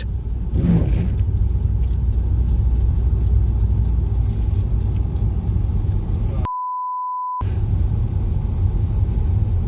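Steady low rumble of a vehicle travelling through a blizzard in zero visibility, with wind noise. About two-thirds of the way in, all sound cuts to a single steady censor beep lasting about a second, then the rumble resumes.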